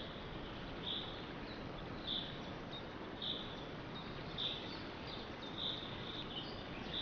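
A short, high call repeated evenly about once a second, seven times, over a steady background hiss.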